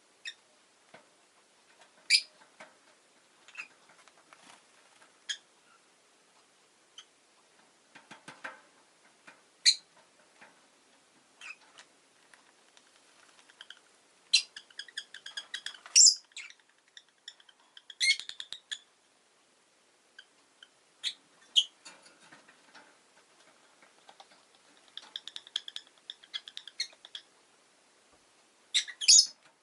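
Rosy-faced lovebird giving short, sharp high chirps at irregular intervals, with a busier run of chirps midway and a loud double chirp near the end. Faint small clicks and rustles sound between the calls.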